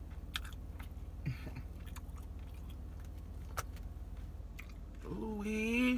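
A man chewing a mouthful of grilled chicken, with a few sharp wet mouth clicks, over a steady low hum. Near the end he lets out a drawn-out, rising 'ooh-wee'.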